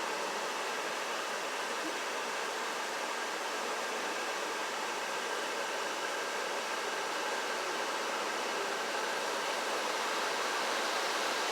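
Automatic car wash spraying water over the car, a steady, even hiss heard from inside the closed cabin.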